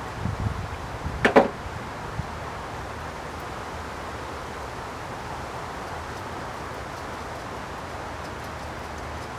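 A few low knocks, then one sharp clank with a short ring about a second in, over steady background hiss.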